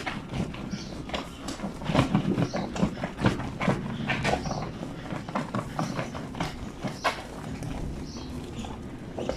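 A wet blanket being hand-washed on a granite washboard sink: irregular wet slaps, knocks and scrubbing strokes of soaked cloth against the stone, busiest about two to three and a half seconds in.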